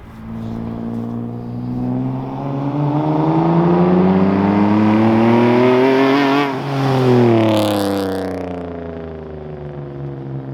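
BMW E36 with a freshly fitted aftermarket exhaust, primary muffler deleted, accelerating with its engine note climbing steadily for about six seconds. The note then drops sharply as the car passes and pulls away, fading.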